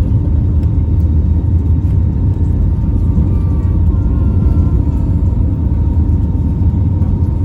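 Steady low rumble inside the cabin of an Airbus A319 with its engines running, with a thin steady whine above it.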